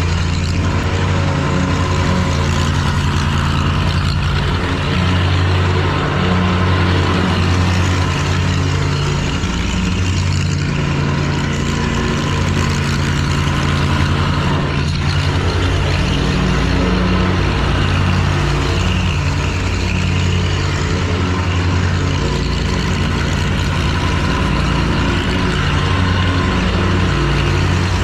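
Lawn mower's petrol engine running steadily at full throttle.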